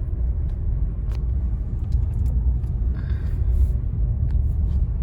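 Steady low road rumble heard from inside a moving car's cabin, with a few faint ticks.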